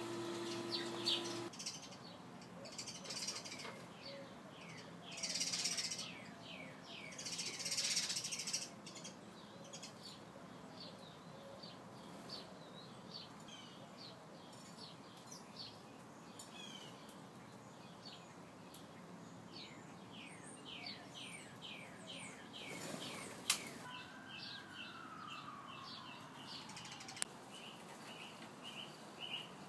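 Small birds chirping and calling: a long string of short, quick downward-sweeping chirps, two louder rustling bursts a few seconds in, and near the end a long falling whistle followed by a rapid run of high notes.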